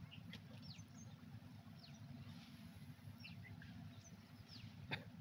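A bird repeats a short, high, falling chirp four times, about one every second and a bit, over a faint low rumble. There is a single sharp click near the end.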